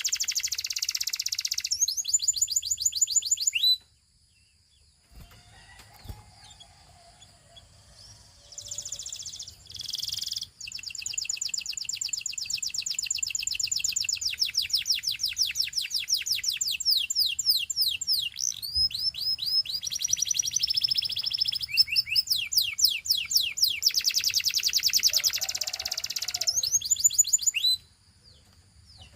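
Russian canary singing long phrases of fast rolling trills and rapid repeated chirping notes. The song breaks off a few seconds in, stays quiet for about four seconds apart from a few short notes, then resumes and stops shortly before the end.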